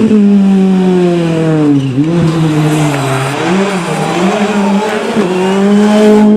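Rally car engine revving hard on a special stage, its pitch sliding down for a couple of seconds, dipping sharply, wavering, then climbing and holding high again as the driver lifts off and gets back on the throttle.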